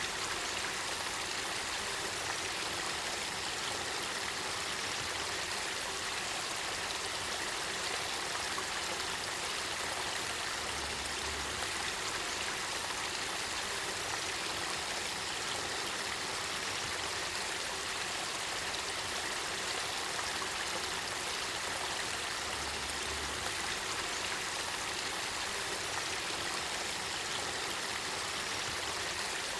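Spring water flowing steadily in an even rush, the spring-fed water of the Kakitagawa river.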